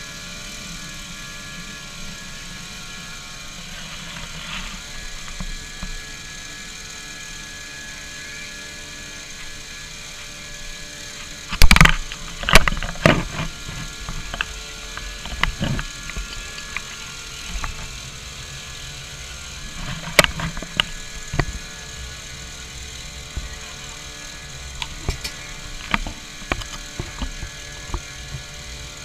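Vehicle engine running steadily, with a cluster of loud, sharp knocks about twelve seconds in and more scattered knocks after.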